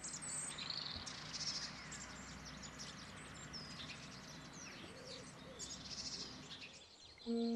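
Several small birds chirping and singing in short, overlapping calls over a soft steady hiss; music comes in just before the end.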